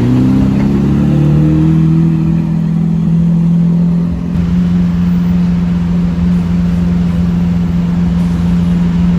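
A car's engine rising in pitch over the first second or two, then holding a steady drone.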